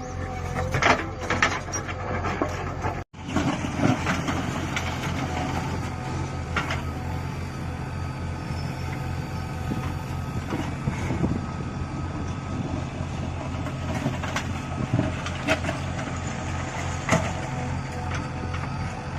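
Diesel engine of an earthmoving machine running steadily under work, with a few sharp knocks now and then. The sound cuts out briefly about three seconds in.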